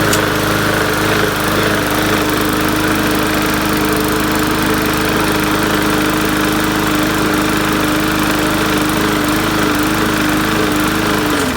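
Bolens MTD push mower engine running at a steady, even speed after a one-pull start, a sign that it runs well again. Near the very end its pitch sags as it starts to wind down.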